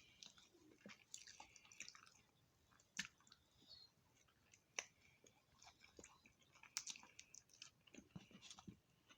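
A person chewing food with the mouth, soft wet clicks with a few sharper ones about three, five and seven seconds in.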